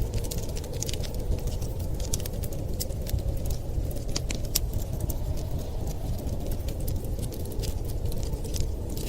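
Wood fire crackling with frequent irregular sharp pops and snaps, over a steady low rumble of wind.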